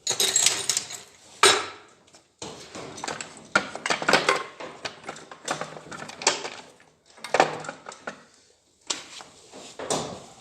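Metal engine parts clinking and knocking together in irregular bursts as they are handled and set down while a cylinder head is being dismantled.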